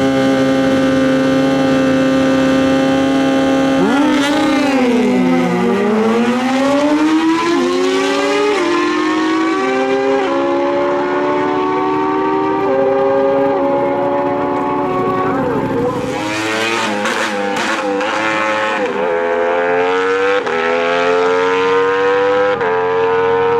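Stock sportbike drag-racing engines held at steady high revs, then dipping about four seconds in and climbing again through a run of stepped gear changes. Further revving rises and falls follow in the second half.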